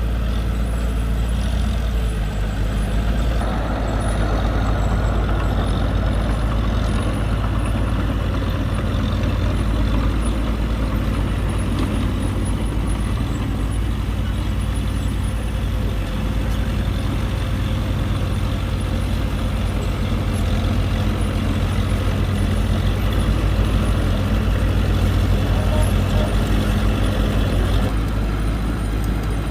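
Diesel engine of a small crawler bulldozer running steadily under work. It grows busier and harder-working about three seconds in and eases back near the end.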